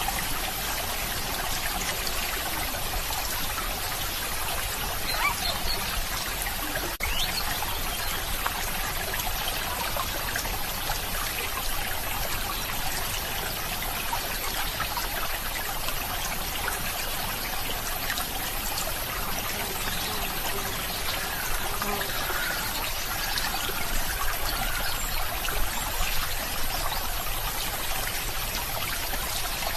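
Flowing stream water trickling steadily, an even babbling wash with no break.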